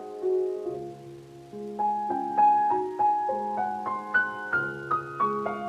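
Solo piano music: single notes and chords played at a gentle pace, the melody climbing higher in the second half.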